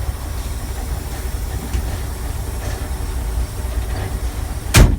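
Tractor-trailer's diesel engine idling, a steady low rumble heard from inside the cab. Near the end comes one short, sharp burst of air from the dash air brake valve as a parking brake is worked.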